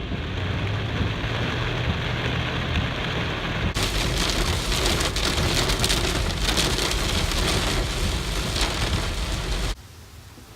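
Heavy rain pouring, with a steady low rumble underneath; the rain gets heavier and hissier about four seconds in, then cuts off suddenly near the end.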